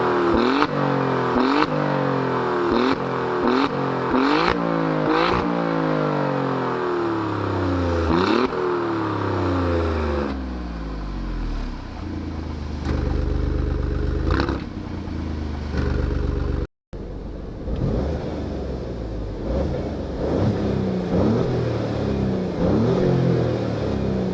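Alfa Romeo Giulia Quadrifoglio's twin-turbo V6 being revved through its exhaust: a quick series of sharp throttle blips, the pitch rising and falling about once a second. It settles to a lower, steadier running with a few more blips from about ten seconds in. After a momentary cut, it revs again in repeated rises.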